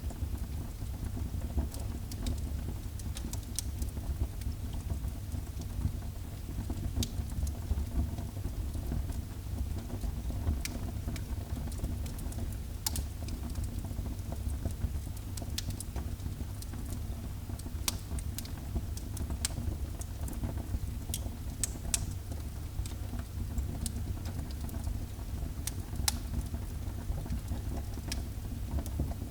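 Wood fire burning in a fireplace: scattered sharp crackles and pops at irregular intervals over a steady low rumble.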